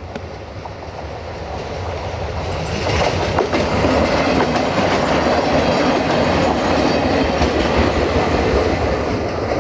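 Two-car diesel multiple unit approaching and passing close by: its diesel engine runs and its wheels clack over the rails. The sound grows louder over the first three seconds, then holds steady as the cars go past.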